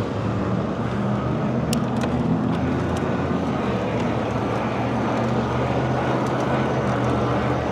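Steady street traffic noise with a low engine hum and one short click about two seconds in.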